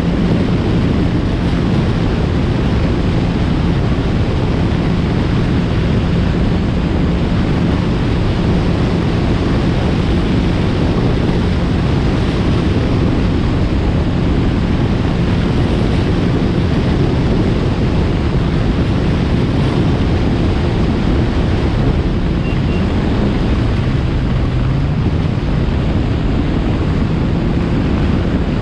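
2020 Yamaha FX SVHO personal watercraft, a supercharged four-cylinder four-stroke, running steadily at speed. Its engine drone sits under heavy wind rush on the action-camera microphone and the hiss of the hull on the water, and the engine note shifts slightly about 23 seconds in.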